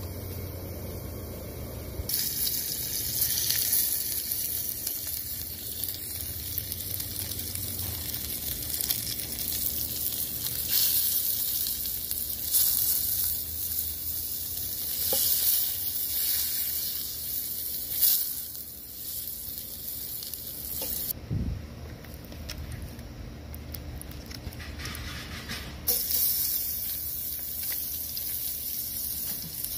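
Hot dogs and then onion slices sizzling in hot oil in a frying pan. The sizzle starts suddenly about two seconds in, dies down for a few seconds near the end, and picks up again.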